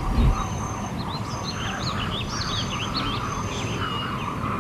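Small birds chirping and twittering in quick rising and falling notes, with a short, high, steady whistled note repeating about once a second.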